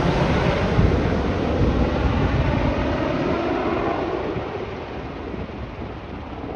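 Boeing AH-64 Apache helicopters flying away, their rotor and engine noise fading steadily, the higher sounds dying off first.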